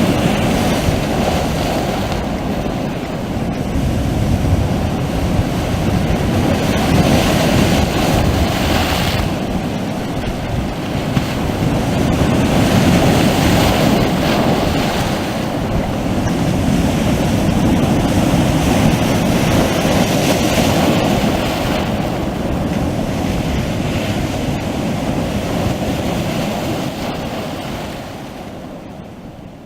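Sea waves washing onto the shore, swelling and easing every few seconds, fading out near the end.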